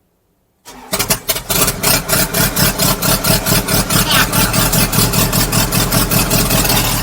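Enstrom F28F helicopter's four-cylinder Lycoming piston engine starting: a brief crank on the starter after about half a second, then it catches within a second and runs with a steady pulsing beat. It fires on the first try, a sign that its earlier hard-starting problem is cured.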